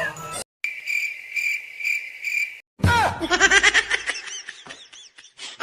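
Cartoon sound effects: a pulsing, high chirping tone like a cricket effect, swelling about twice a second, then after a short break a rapid, high-pitched warbling chatter.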